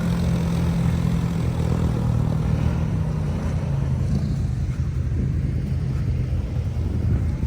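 ATV (quad bike) engine running steadily under way, its pitch easing down a little partway through.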